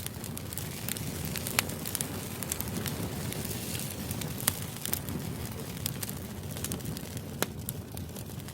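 Crackling fire ambience: a steady low rumble with sharp, irregular pops and snaps every second or so.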